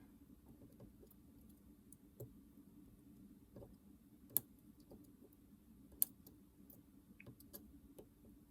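Faint, scattered small clicks and taps of hand tools and parts being handled during bench repair on a Nintendo DS Lite, with two sharper ticks about four and six seconds in, over a low steady hum.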